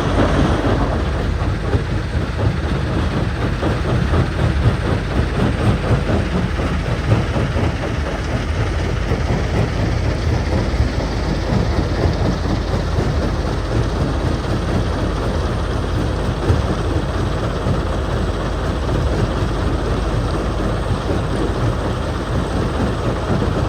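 Jonsson 1208 mobile jaw crusher running under load, rock rattling and grinding through it over a steady heavy diesel rumble.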